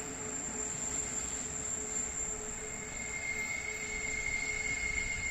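Bernina Railway train running around the tight curve of the spiral viaduct, its wheels squealing in long steady high tones over the rumble of the running train; a second, higher squeal joins about halfway through.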